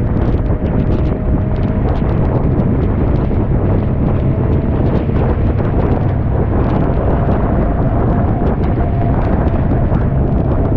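MGA race car's four-cylinder engine running steadily under hard racing load, heard from on board, with wind buffeting on the microphone.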